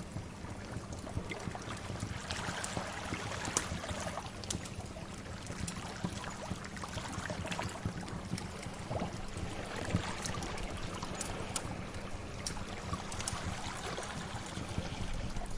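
Sea waves washing steadily, with a wood fire crackling over them in scattered sharp pops.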